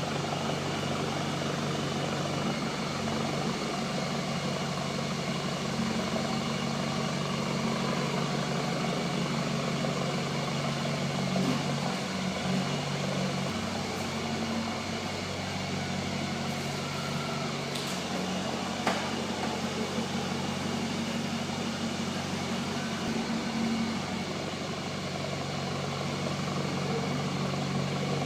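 Mitsubishi L200 pickup's engine idling steadily through its stainless steel custom exhaust, with a couple of faint clicks about two thirds of the way through.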